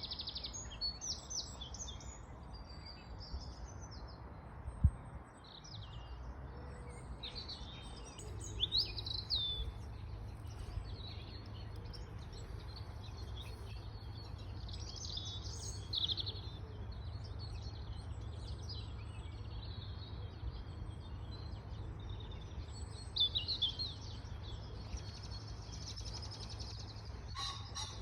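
Small songbirds singing and calling on and off, with short chirps and phrases throughout. A low steady rumble sits underneath from about eight seconds in, and a single dull thump comes about five seconds in.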